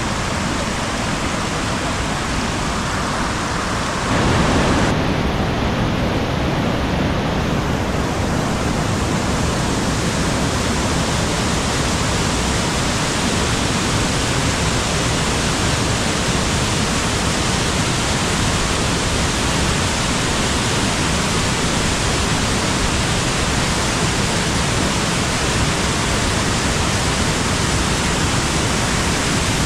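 Waterfall rushing: a steady, full noise of falling water, which briefly swells and changes character about four seconds in.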